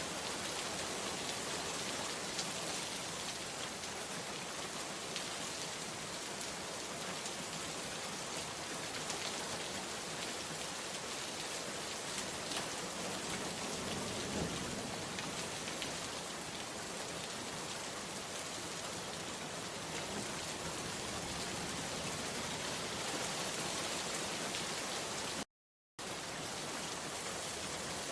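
Steady rain falling, an even hiss. About three seconds before the end it cuts out completely for half a second, then resumes.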